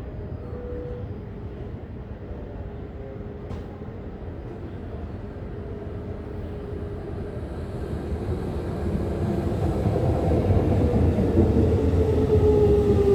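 Tokyo Metro 16000 series train with a Toshiba IGBT-VVVF inverter and permanent-magnet synchronous motors, its running sound growing louder over the last several seconds as it gets under way, with a single inverter tone sliding downward near the end. A brief click sounds about three and a half seconds in.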